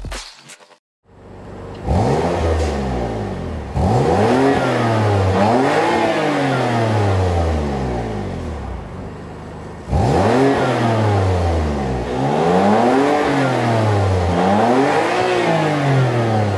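BMW M2 CS twin-turbo straight-six revved repeatedly through an Akrapovic Slip-On Line exhaust with its valves held fully open, the pitch climbing and falling with each rev. The revving starts about two seconds in, eases off briefly past the middle, then comes back for several more revs.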